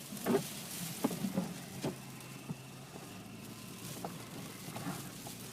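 1992 Lexus sedan's engine running at low speed, heard from inside the cabin, with a few short knocks, mostly in the first two seconds.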